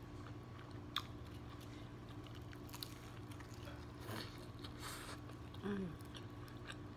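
Close-up sounds of someone biting into and chewing fried chicken: small wet mouth clicks and a few soft crunches of the breaded skin, over a steady low hum.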